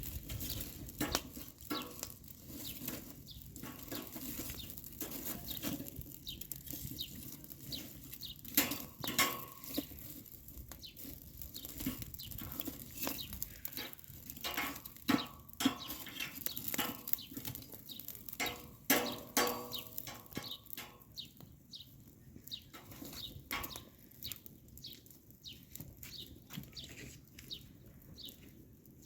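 Irregular clinks and knocks of metal cookware and utensils being handled, some ringing briefly, busiest in the middle stretch.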